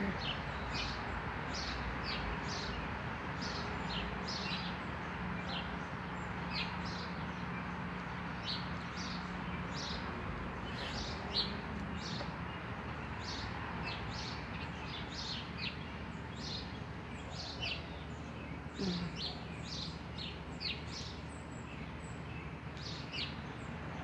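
Small birds chirping: short, high calls repeated about twice a second over steady background noise and a faint low hum.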